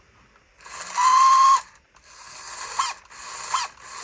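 Electric drive motor and gearbox of a vintage RC toy vehicle whirring in four short bursts, running with no weight on its wheels, each burst with a rising whine and a ratcheting grind. The grind sounds like stripping gears, though the owner doubts it is; he suspects a damaged little pinion gear inside.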